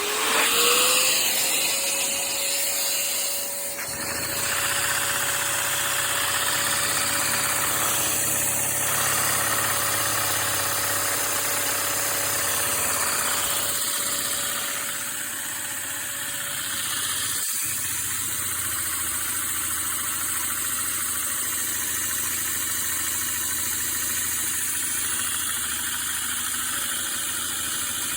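Two-cylinder vacuum model engine running at a steady speed, with a whine that rises in pitch at the very start and then holds steady over a constant rushing hiss of air.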